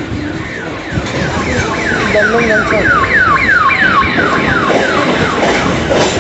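A rapid run of falling electronic whistle tones, about three a second, like a siren or alarm effect. They swell to a peak midway and fade out near the end, over the running rumble of a moving suburban electric local train.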